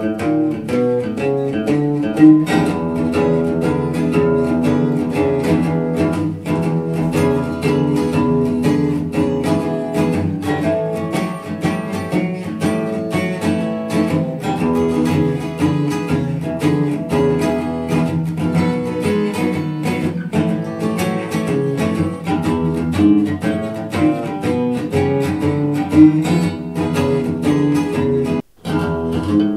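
Acoustic blues guitar music played through a hi-fi bookshelf speaker and recorded by a microphone in the room. It drops out for a moment near the end, then carries on.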